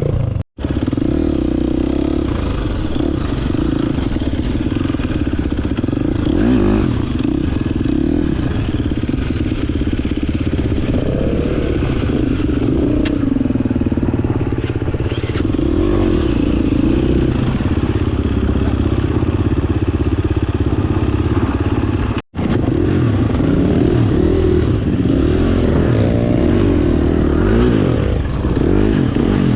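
Dirt bike engine running under way, its pitch rising and falling with the throttle. The sound drops out for an instant twice, about half a second in and about two-thirds of the way through.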